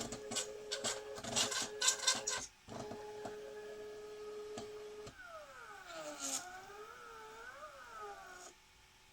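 Stepper motors of a 3D-printed SCARA robot arm whining as the arm moves: several tones slide down and up in pitch together from about five seconds in, then cut off abruptly. Before that there is a steady hum with a quick run of clicks and knocks.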